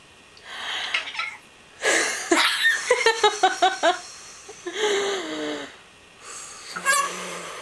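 Deep breaths taken slowly and audibly, in and out, one ending in a sighing exhale that falls in pitch. In the middle comes a quick run of laughter.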